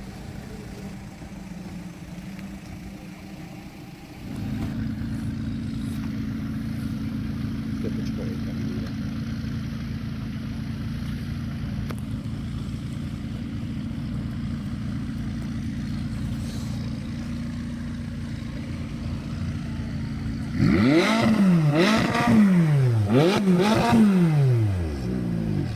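Car engine running with a steady drone, which becomes louder about four seconds in. Near the end a car engine is revved hard about four times, its pitch rising and falling with each rev.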